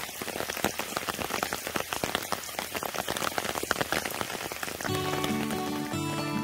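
Rain falling on a ground-mounted solar panel array, a dense spatter of small drop hits. About five seconds in, acoustic guitar music begins over it.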